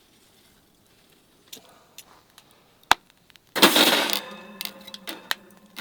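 Hard objects being handled: a few sharp clicks, then a loud clatter a little past halfway that leaves a ringing tone fading away, like metal or glass items knocking together.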